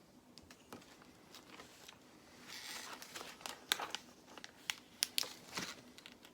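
Plastic Lego bricks being handled and pressed together: a scatter of small sharp clicks and knocks, busier in the second half, with a brief rustle of pieces being sorted.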